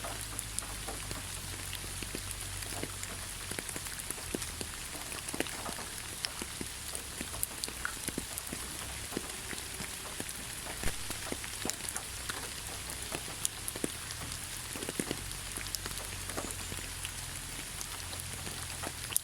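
Steady rain falling through pine forest, with a constant hiss and many separate drops pattering close by.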